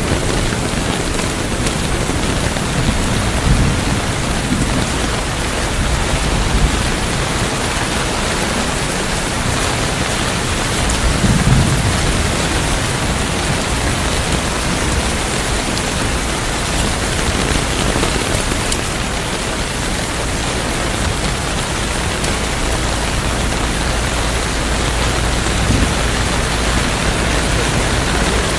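Steady, heavy rain, with low rumbles of thunder about four seconds in and a stronger one about eleven seconds in.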